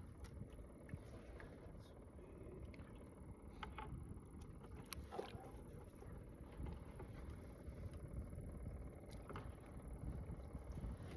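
Faint low rumble of wind on the microphone, with scattered small clicks and ticks.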